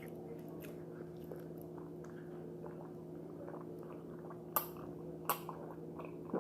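Quiet mouth sounds of someone sipping and swallowing cold juice, with small wet ticks over a steady low hum. Sharp clicks come about four and a half and five and a quarter seconds in.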